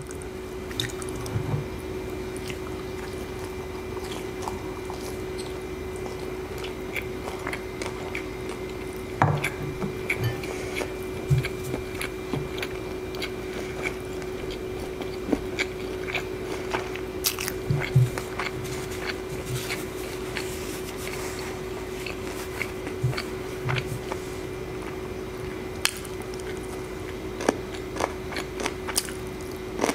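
Close-miked eating: chewing and biting, with short clicks and soft thuds scattered irregularly throughout, over a steady background hum.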